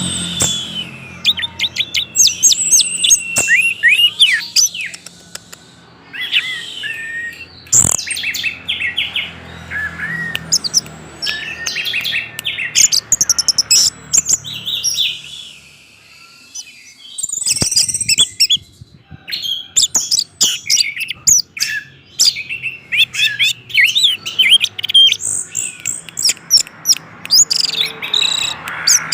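Orange-headed thrush singing a long, varied song of rapid whistled and chattering phrases, broken by a short pause about halfway through.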